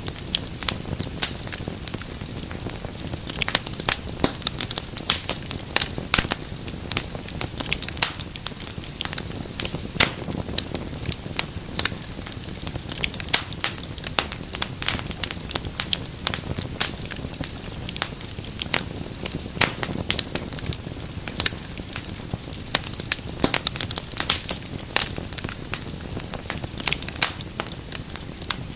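Wood fire crackling steadily: many sharp, irregular pops and snaps over a low hiss of burning.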